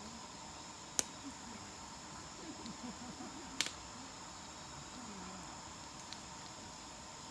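Crickets chirring steadily, with two sharp pops from the burning wood of a campfire, one about a second in and one about halfway through.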